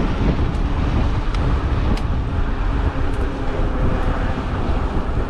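Steady rushing road noise from riding an e-bike through street traffic: wind on the microphone and traffic sound, with a few faint ticks.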